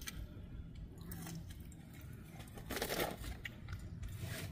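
Quiet chewing of a mouthful of food taken from a fork, over a faint steady low hum, with one brief louder sound about three seconds in.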